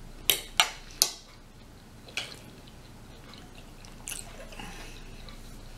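Close-miked eating sounds: three sharp wet mouth clicks in quick succession in the first second, then two more spaced out over the next few seconds.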